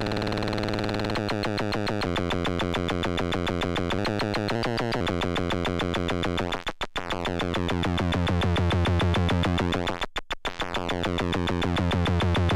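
Analog oscillator of a Eurorack modular synth (Little Monster VCO) droning, its pitch and pulse width swept by a looping envelope, so the tone keeps shifting in steps. It briefly stutters out twice, near the middle and about two-thirds through.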